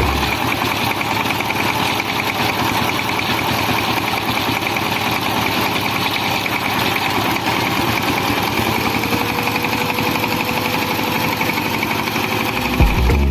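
Home-made miniature thresher machine running steadily on its small motor, a continuous even whirr with a faint tone that rises slightly about two-thirds of the way through.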